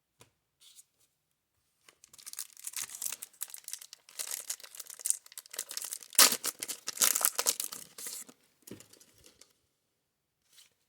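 Plastic wrapper of a 1990 Score baseball card pack being torn open and crinkled, several seconds of ripping and rustling with the loudest rip a little past the middle.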